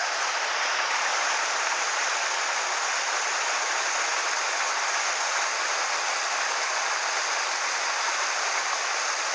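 Mountain stream water rushing over rocks in a steady, even rush.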